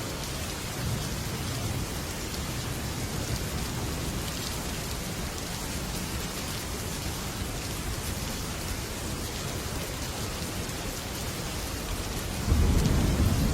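Heavy rain drumming steadily on a metal roof, with thunder rumbling low underneath; near the end a louder roll of thunder breaks in suddenly.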